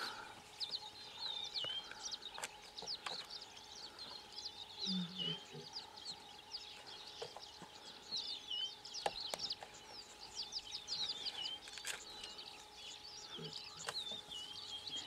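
Small birds chirping: many short, high-pitched calls with quick downward slurs, several a second, without pause. A brief low grunt sounds about five seconds in, and a few sharp clicks are scattered through.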